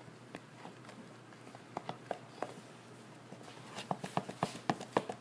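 Irregular light clicks and taps, a few at first and then more frequent and louder over the last second and a half.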